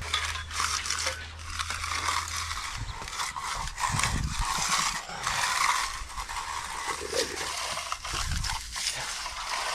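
A long-handled concrete finishing tool scraping and sliding over a fresh concrete slab, an uneven scratchy rasp, with a low steady hum in the first couple of seconds.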